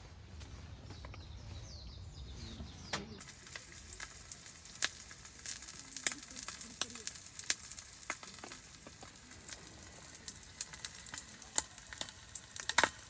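A steady sizzling hiss with many sharp crackles, starting abruptly about three seconds in after a quieter low rumble.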